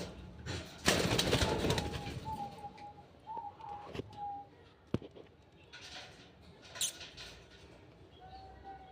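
A bird flapping its wings in a loud flurry about a second in, followed by a few short, soft, steady calls, a single sharp click and a brief high rising chirp.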